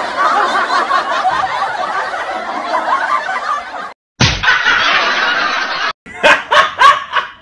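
Canned audience laughter, like a sitcom laugh track, that cuts off abruptly about four seconds in. A different short effect follows, opening with a low thump, then a few short, separate bursts near the end.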